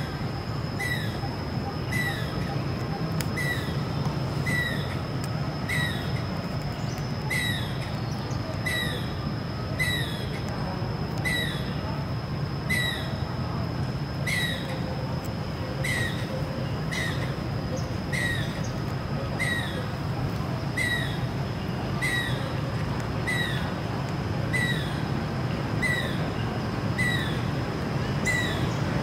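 A bird calling over and over, one short falling note a little more often than once a second, very regular, over a steady high-pitched whine and a low background rumble.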